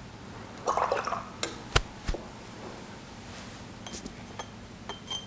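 Handling of painting tools: a short splashy rustle, then a few sharp knocks and light clinks of a brush against ceramic paint dishes.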